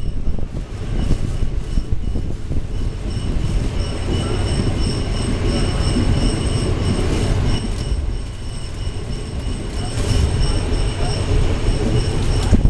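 Passenger train coach running along the track, heard through an open window: a heavy, steady rumble of wheels on rails with a thin high whine held above it.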